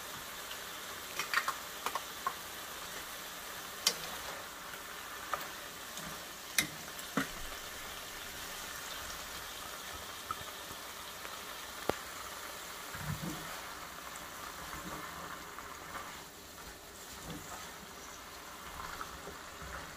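Food sizzling steadily as it stir-fries in a pan, with a few sharp clinks scattered through it; the sizzle eases a little after about sixteen seconds.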